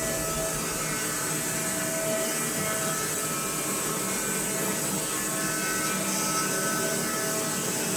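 Woodland Mills HM126 portable bandsaw mill running steadily, its engine and band blade making a continuous whine.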